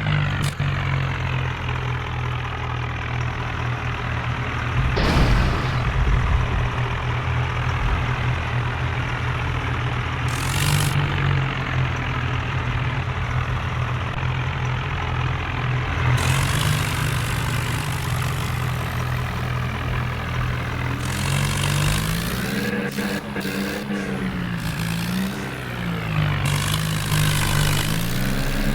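Tractor engine running steadily, its pitch rising and falling in several revs over the last few seconds. Brief bursts of noise come about five, ten and sixteen seconds in.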